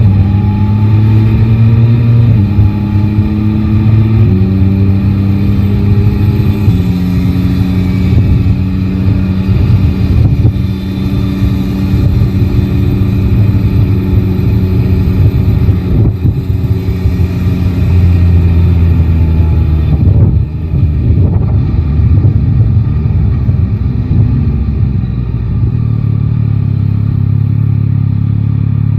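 Yamaha Tracer 9 GT's three-cylinder engine running under way, pulling through several gear changes in the first seven seconds, then cruising steadily. About twenty seconds in, the engine note briefly breaks and then settles lower. Wind rushes over the microphone throughout.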